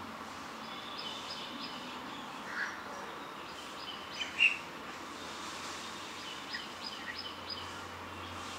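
Faint chirping of small birds over a steady background hiss. The chirps are short and high and come irregularly, the loudest about four and a half seconds in and a quick run of small ones near the end.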